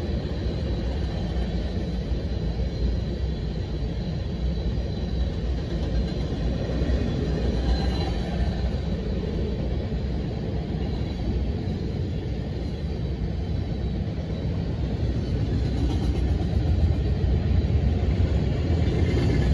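Freight train cars rolling past: a steady rumble of steel wheels on rail as covered hoppers, tank cars and an autorack go by, growing a little louder near the end.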